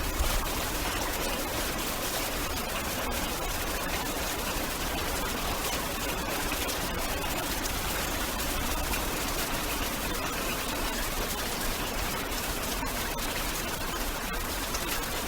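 Heavy rain falling steadily: a dense, even hiss with a low rumble beneath it.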